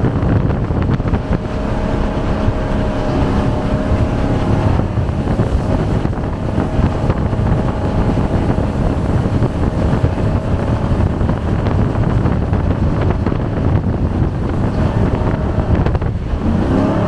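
Jet boat engine running hard at speed, its pitch shifting as the throttle changes, with wind buffeting the microphone.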